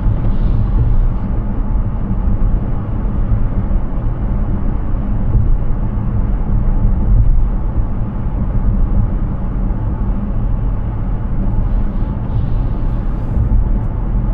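Steady low rumble of tyre and road noise from an electric Hyundai Ioniq 6 driving at speed, with no engine sound.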